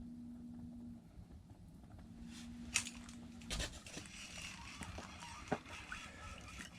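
Clicks, knocks and rustling of ice-fishing gear being handled as a perch is reeled up through the hole, with a low steady hum in the first second and again around two to three and a half seconds in.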